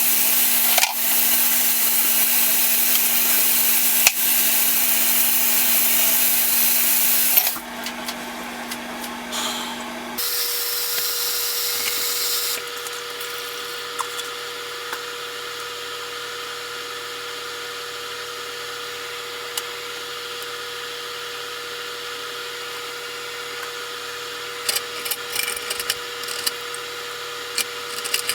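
A power tool running with a loud, hissing noise, cutting off sharply about seven and a half seconds in. A quieter steady hum follows, with a few light clicks and rattles near the end.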